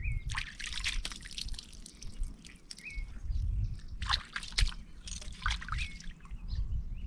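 Water splashing and trickling in short bursts, once about a second in and again around four seconds. A bird gives a short chirp about every three seconds.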